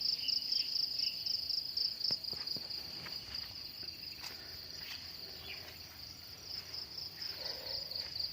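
Insects calling in a steady, high-pitched, finely pulsing trill, with a few faint clicks scattered through it.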